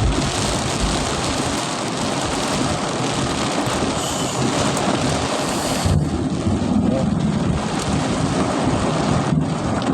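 Heavy rain pouring down over a low rumble. About six seconds in, the rain hiss thins out sharply and the low rumble carries on.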